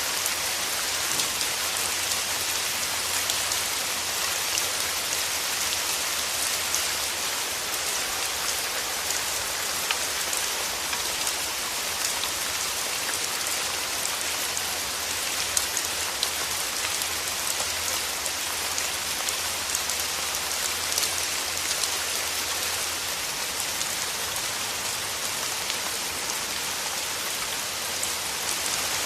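Steady rain falling through forest trees, a dense even hiss with many small drop ticks pattering on leaves.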